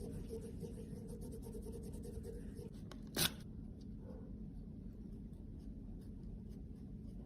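Light, steady scratching and rubbing of a small tool working makeup, with one sharp tap about three seconds in.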